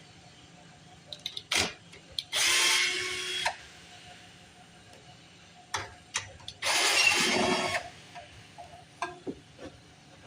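A 1952 Briggs & Stratton Model 6 engine is pulled over twice on its recoil starter, about four seconds apart. Each pull is about a second of cranking noise, and the engine does not catch. Short clicks from the starter come before each pull.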